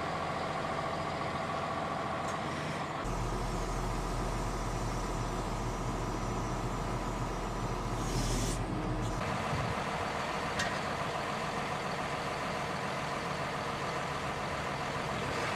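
Engines of heavy farm machinery running steadily, the sound changing abruptly about three seconds and nine seconds in.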